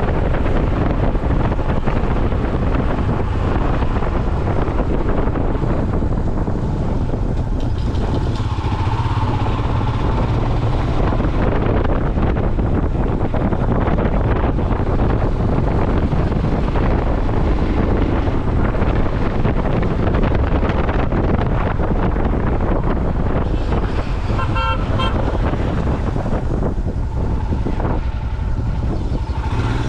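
A motorcycle running on the road with wind buffeting the microphone. A vehicle horn gives a short run of beeps about three-quarters of the way through.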